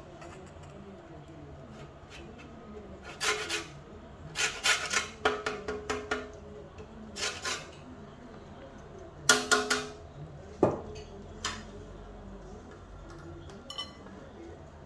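Lemon being grated onto chicken: several short bursts of rasping strokes against a hand grater, followed by a single sharp knock.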